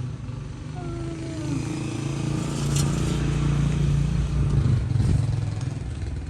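A motor vehicle engine passing by, growing louder to a peak a few seconds in and then fading.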